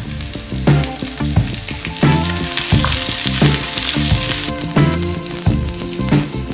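Chopped onions sizzling in hot oil with dried red chillies and ginger, stirred with a wooden spatula. The hiss swells loudest in the middle.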